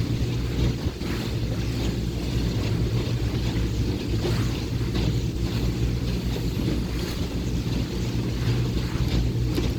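Speedboat's engine running at a steady pitch as it cruises, with wind buffeting the microphone and water rushing past the hull.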